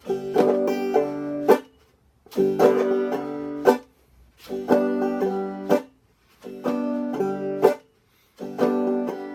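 Banjo played in clawhammer style, repeating a chop pattern of strike, palm mute, upstroke, downstroke and thumb. Five times, a burst of strummed chords rings for about a second and a half, ends on a sharp accent and is cut off abruptly into silence by the palm mute.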